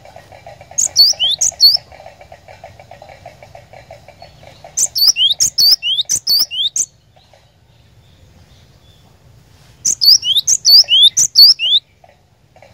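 Cinereous tit (glatik batu) calling in three bursts of rapid, high, sweeping chirps, each lasting about two seconds with pauses between, over a faint steady buzz in the background.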